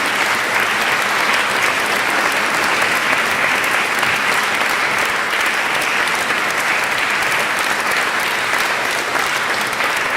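Concert audience applauding steadily in a church, a dense patter of many hands clapping with the hall's reverberation.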